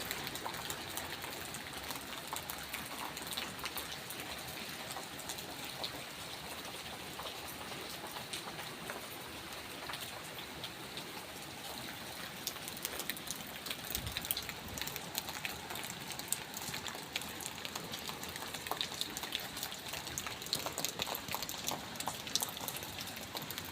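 Steady rain falling: an even hiss dotted with many sharp ticks of individual drops striking.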